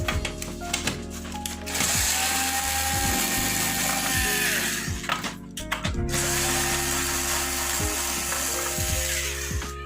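Power screwdriver spinning in two long runs with a gap of about a second between them, its motor whine rising and falling.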